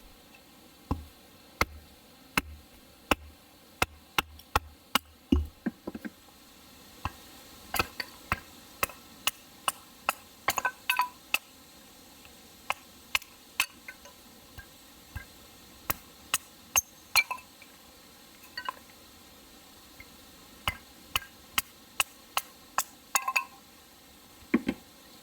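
A series of short, sharp clicks and knocks at an uneven pace, with a run of regular, deeper knocks about every 0.7 seconds in the first five seconds.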